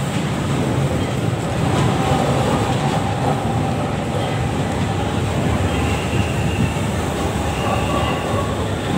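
LRT-1 third-generation light rail train pulling into the platform and running past close by, a steady loud noise of wheels on rail. Faint high squeals come in twice in the second half.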